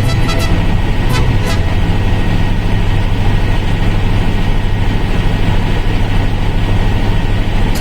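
Helicopter cabin noise: the steady, loud low rumble of the rotor and engine, heard from aboard in flight.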